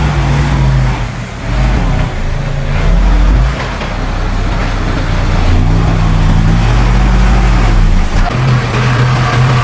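Heavy diesel engine of earthmoving machinery running under varying load, its note rising and falling several times, with a brief dip in loudness about a second and a half in.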